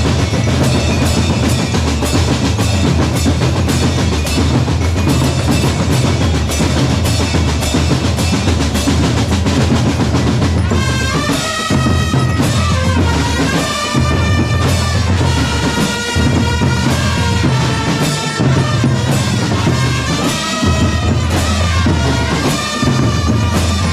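Drum corps playing: rapid snare and bass drum strokes, then about ten seconds in a melody enters over the drums.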